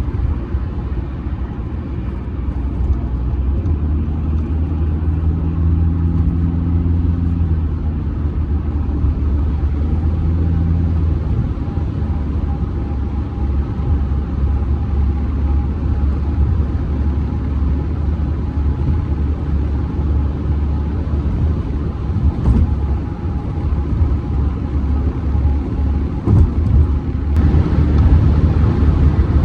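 Audi A6 C6 2.0 TDI on the move: the four-cylinder diesel's steady hum under low road and tyre rumble. The rumble gets louder and rougher near the end.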